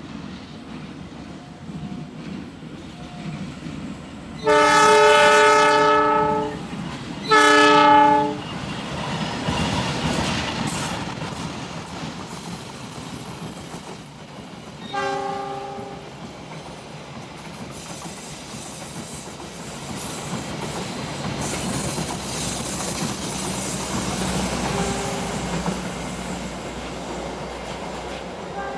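Passenger train's horn sounding two loud blasts, the second shorter, then the train rumbling past with wheel clatter on the rails and a short, fainter horn note about halfway through.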